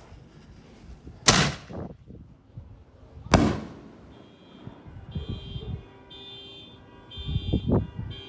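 A 6-inch canister firework shell firing: a loud boom as the lift charge launches it from the mortar tube, then a second loud boom about two seconds later as the shell bursts. From about four seconds in, an alarm beeps in a regular repeating pattern, a little under a second per beep.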